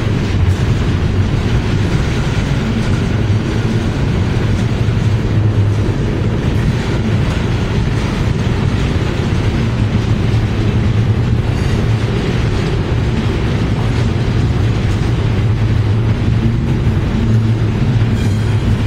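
Freight train well cars loaded with stacked trash containers rolling past: a steady low rumble of steel wheels on the rails.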